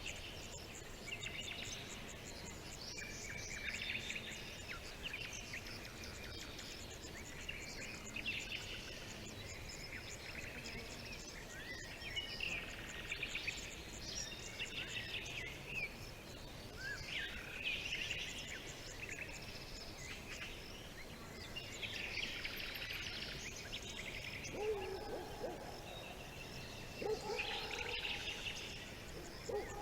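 Wild songbirds chirping and trilling in quick bursts every few seconds over a faint steady outdoor background, with some lower whistled notes joining in after about 24 seconds.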